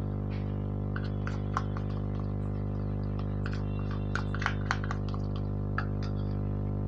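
A steady hum with a stack of even tones runs throughout. Scattered light clicks and scrapes of a steel spoon on an iron pan sound over it as chilli powder is added and stirred into the masala.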